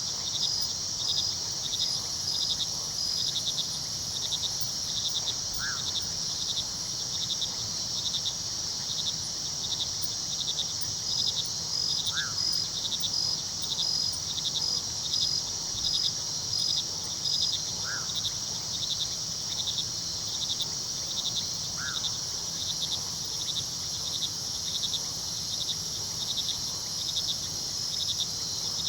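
Night chorus of crickets and other insects: a dense, steady high trilling with one insect's regular pulsed chirps running through it. A low, steady rush of river water lies under it, and four short rising calls, each a single note, come several seconds apart.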